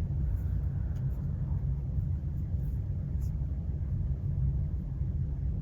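Steady low rumble of a cruise ship under way, heard from inside a cabin.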